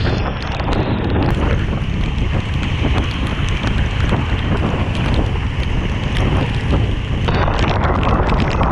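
Heavy wind buffeting the microphone and driving rain during a motorcycle ride, with many small raindrop ticks on the mic. The rush grows louder about seven seconds in.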